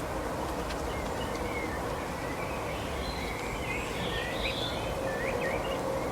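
Small birds chirping, a string of short quick twitters, over a steady background rumble.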